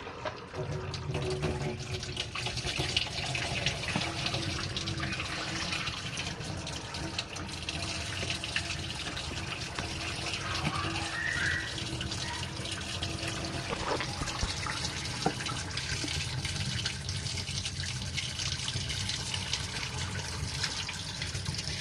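Dirty wash water draining out of a compact RV washing machine after the main wash, a steady stream of running water.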